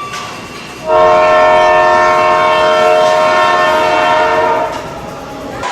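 Loud arena horn sounding one steady, many-toned blast of about four seconds, starting about a second in.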